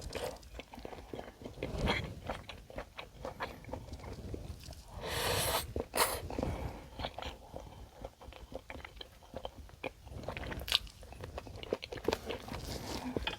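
Close-miked eating: a person chewing and biting food, with many small wet clicks and crunches. A louder, rougher noise lasting about half a second comes about five seconds in.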